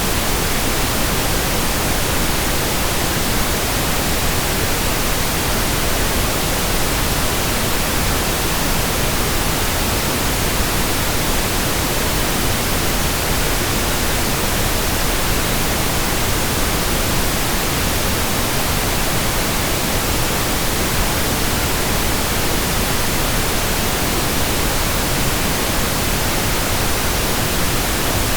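Steady synthetic pink noise: an even, unchanging hiss with no events.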